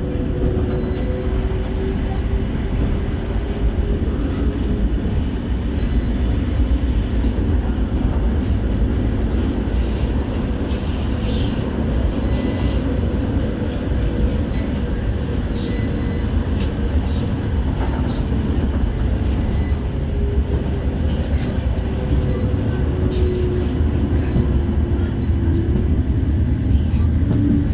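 Interior of a CAF Urbos 3 tram running along the line: a steady wheel-on-rail rumble under an electric traction-motor whine, with scattered clicks and knocks. The whine falls in pitch near the end as the tram slows.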